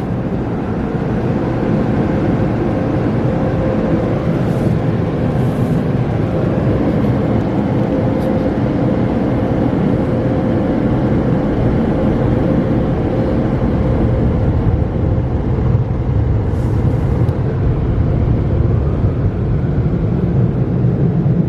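Belanger tunnel car wash equipment heard from inside the car: a loud, steady rushing noise with a faint hum running through it, getting a little heavier in the low end near the end.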